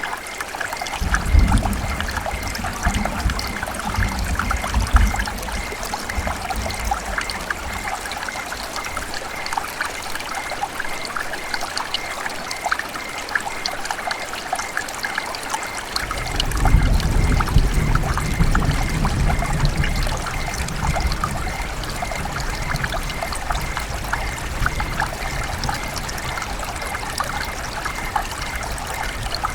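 River water running and trickling steadily, a dense patter of small splashes. A low rumble swells in about a second in and again just past the middle.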